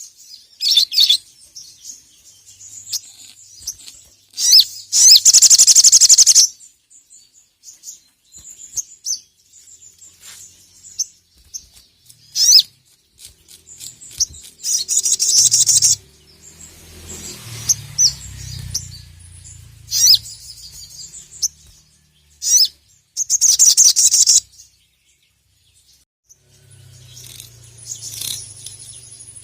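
Sogon (sogok ontong), a sunbird, singing in loud bursts of rapid, high chirping trills a second or two long, repeated several times with short pauses: the sharp, fast challenge song of a bird calling to a rival.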